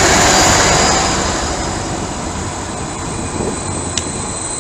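Passenger train running along the station tracks with a thin, high wheel squeal. The noise is loudest in the first second and then eases, with one sharp click about four seconds in.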